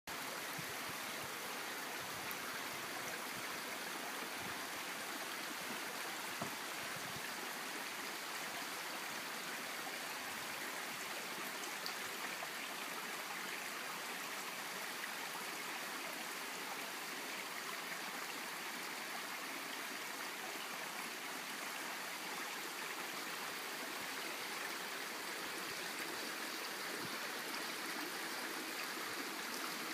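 Small brook babbling steadily over rocks.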